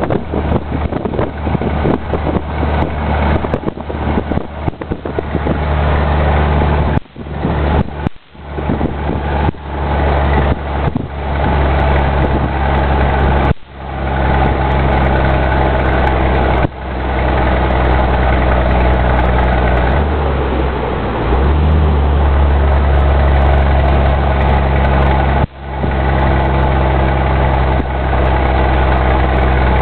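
Scania 124 truck's diesel engine running under way, with a steady low drone. Its note drops out briefly about five times, as the throttle lifts for gear changes.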